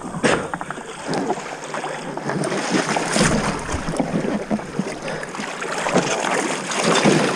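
Water splashing and sloshing around a small boat moving through a shallow river, in irregular uneven splashes.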